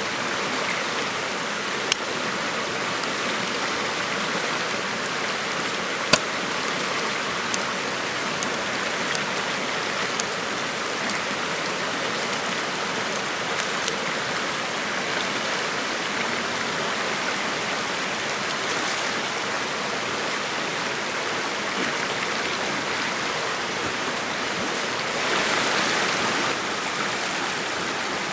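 Steady rushing of flowing water, with two sharp clicks about two and six seconds in and a slight swell near the end.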